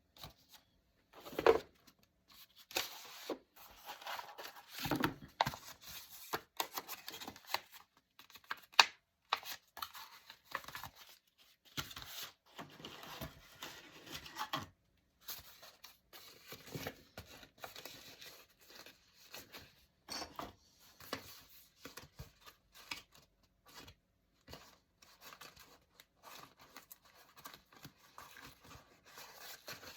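Close-up paper handling in journal making: paper rustling, crinkling and tearing in irregular bursts, with small sharp taps and clicks.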